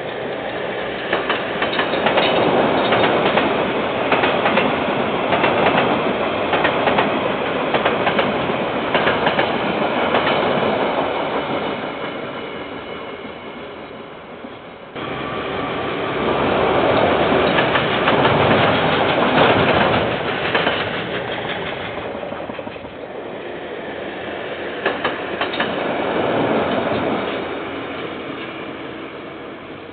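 KiwiRail trains passing: the rumble of wagons with wheels clicking over the rail joints, swelling and fading as each train goes by. The sound cuts abruptly to another passing train about halfway through.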